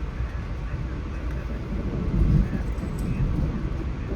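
Steady low rumble of an Amtrak passenger train running along the tracks, heard from on board, swelling a little about two seconds in.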